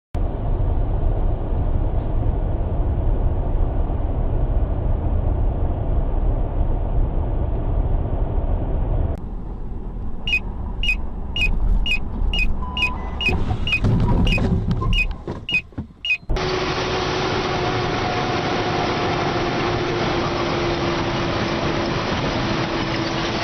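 Car driving noise as picked up by dashcams across several cuts. First there is a low steady rumble. Then comes a run of regular sharp ticks, about two a second. After an abrupt cut there is steady road noise with a faint held tone.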